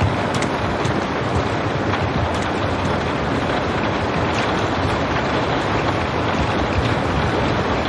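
Steady rain, an even hiss with a few faint drop ticks scattered through it.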